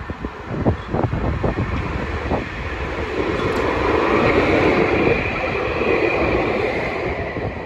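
Wind buffeting the microphone, with the steady rumble of a passing vehicle swelling up about three seconds in and fading away near the end.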